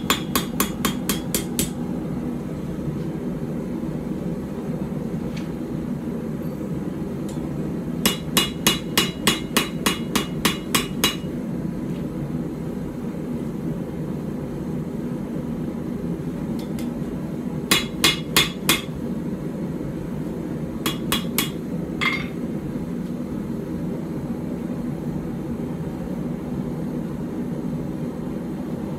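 Hand hammer striking a puukko knife blade on the anvil in short runs of ringing blows, up to about four a second, with pauses between the runs, to take a bow out of the blade. A steady low rushing noise runs underneath.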